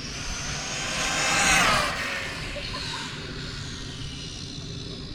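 Whine of an Arrma Typhon-based RC drag car's brushless BLX 2050kV motor and drivetrain on a full-throttle 6S pass at about 94 mph. The whine climbs in pitch, is loudest about a second and a half in as the car goes by, then drops in pitch and fades.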